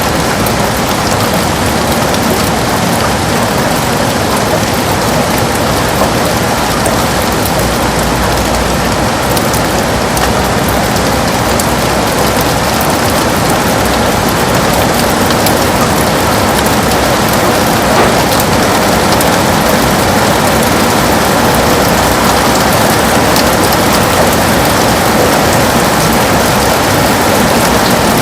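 Heavy rain falling steadily, a dense even patter of drops against a window pane, with a few sharper drop hits standing out.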